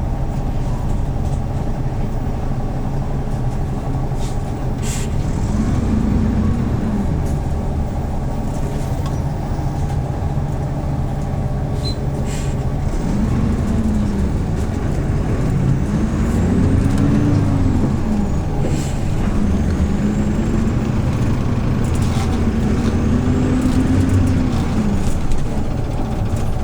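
Hyundai New Super Aero City CNG city bus engine running under way, heard from inside the cabin. Its note rises and falls five times as the bus accelerates and eases off, over a steady low hum, with a few brief clicks.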